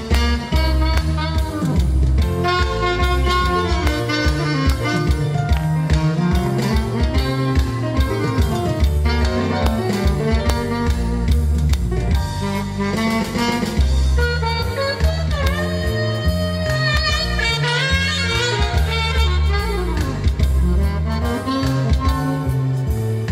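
Saxophone playing a slow melody over a backing track with drums and bass.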